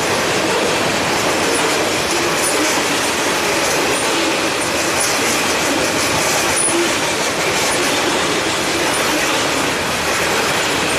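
Railroad cars rolling past on the rails in a steady, loud rush of wheel noise, with brief high wheel squeals scattered through it.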